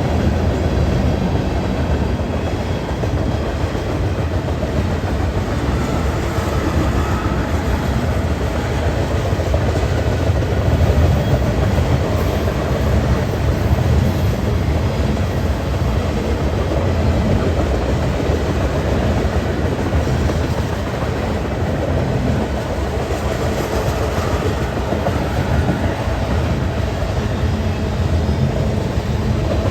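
Train cars rolling past on the rails, a steady, continuous low-pitched noise that does not let up.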